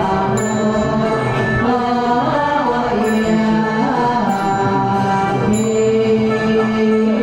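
Ritual chanting with music: long held, slowly moving notes over a steady drone, with short high ringing notes now and then.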